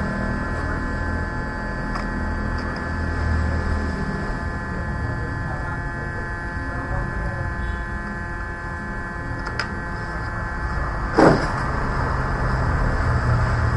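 Steady electrical hum with several fixed tones. A single short, sharp sound comes about eleven seconds in.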